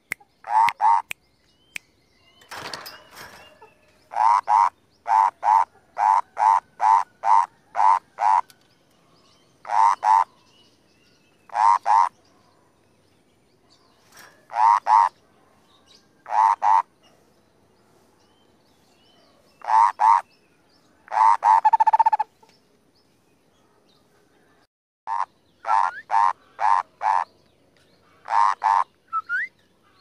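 Caged cucak kopi bird calling: short, loud, harsh notes, some single and some in quick runs of about two a second, with pauses between. A brief rustle comes about three seconds in.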